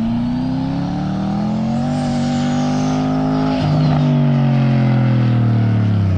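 Car engine pulling hard, its pitch climbing for about two seconds and then holding. A short break comes just past halfway, after which the engine note slowly drops. Over it a thin high whine rises and then falls away.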